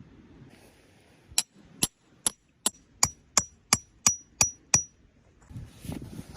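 A hammer driving a metal tent peg: about ten sharp strikes at roughly two to three a second, each with a short high metallic ring that lasts longer on the last few strikes. Softer rustling follows near the end.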